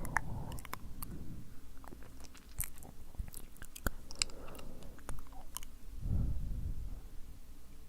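Close-microphone ASMR mouth sounds: many sharp, wet, sticky clicks and smacks of lips and tongue, scattered unevenly. Two soft breathy rushes into the microphone come near the start and about six seconds in.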